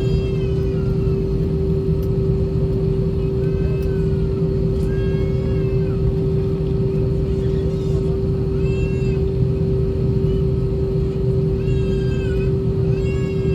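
Steady cabin hum of an Airbus A320 taxiing, with its IAE V2500 engines at idle: low rumble under one constant droning tone. About six short, high, whining cries rise and fall over it, every second or two.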